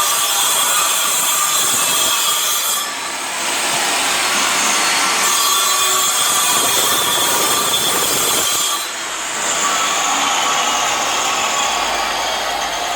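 A power cutting tool running through material, a loud harsh high-pitched noise that eases briefly twice, about three seconds in and again about nine seconds in.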